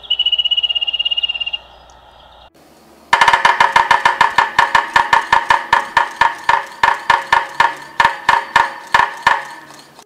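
A wrentit's song ending in a fast, even trill of high notes that stops about a second and a half in. Then a yellow-bellied sapsucker drums on wood, the loudest sound: a rapid roll of knocks that slows into separate, countable taps before stopping near the end.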